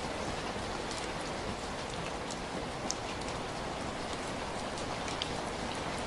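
Heavy rain falling steadily, a dense even hiss with scattered individual drops ticking sharply against it.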